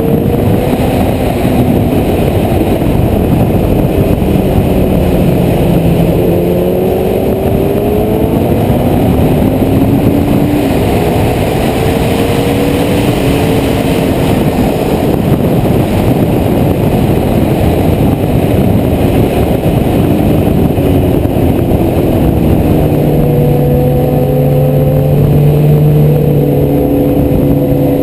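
Honda CBR1100XX Blackbird's inline-four engine heard on board at track speed, its pitch climbing in several pulls, then dropping and holding lower near the end as the bike slows for a corner. A heavy rush of wind noise on the microphone runs underneath.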